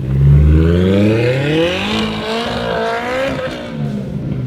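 A Polaris Slingshot's 2.0-litre ProStar four-cylinder engine accelerating hard through an aftermarket Thermal R&D exhaust. The note climbs in pitch for about two seconds, then holds and eases off slightly near the end.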